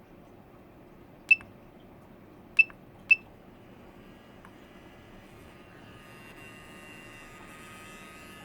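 Three short electronic beeps from a DJI Mavic Pro remote controller, then about six seconds in its internal cooling fan starts with a faint, steady whine and hiss: the strange fan noise that marked this unit as defective.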